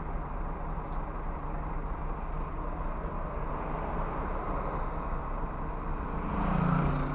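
Scania bus engine running steadily, a constant low hum. About six seconds in, a brief louder pitched sound rises over it.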